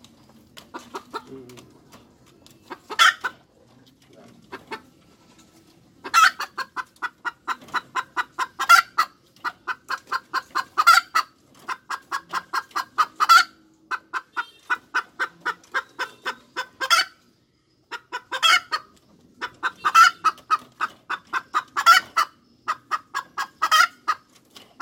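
Domestic hen cackling: runs of rapid clucks, about four or five a second, each broken by a louder drawn-out 'ka-daak' roughly every two seconds. The calls are sparse and quieter for the first several seconds, then keep going without pause.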